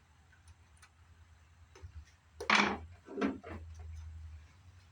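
Handling noises from the disassembly of a CRT monitor: a few faint ticks, then two short, loud scraping knocks about halfway through, over a steady low hum.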